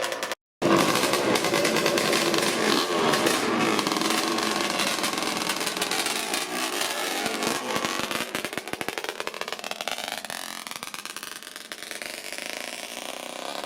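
Two-stroke motorcycle engine running hard with a rapid crackling exhaust. Over the last few seconds its pitch climbs steadily as it accelerates and the sound fades away.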